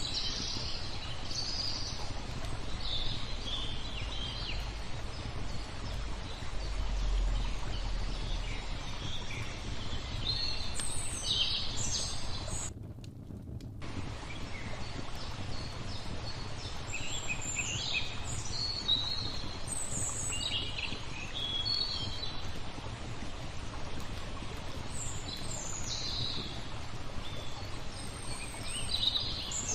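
Songbirds chirping and trilling in quick, scattered phrases over a steady background hiss, with a brief dropout about 13 seconds in.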